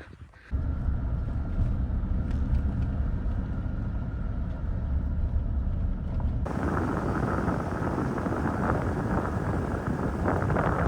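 Pickup truck driving, with a steady engine and road rumble. About six and a half seconds in, a louder rush of wind noise joins it.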